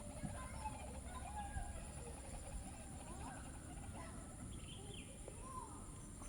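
Faint, scattered bird calls, short chirps and rising-and-falling notes, over a low rumble and a steady high-pitched hiss.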